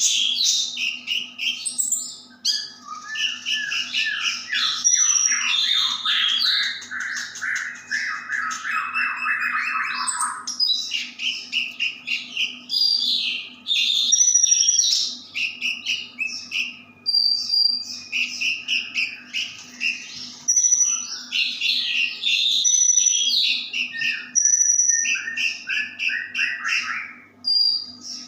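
White-rumped shama (murai batu) singing at length: a rich, varied run of loud whistled phrases, chatters and rapid trills with only brief pauses, including a long lower, rattling trill in the first third.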